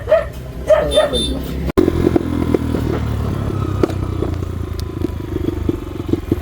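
Motorcycle engine running steadily at low revs, with light ticking. It comes in after a sudden cut just under two seconds in, preceded by a few short bits of voice.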